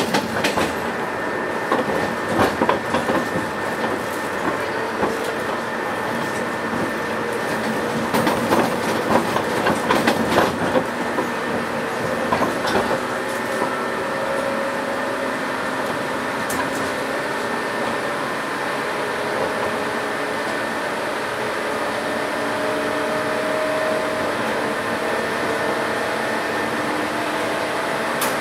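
Inside a JNR 117 series electric train under way: the wheels clatter over rail joints for the first dozen seconds or so, then the ride steadies into an even rumble with the faint whine of the traction motors.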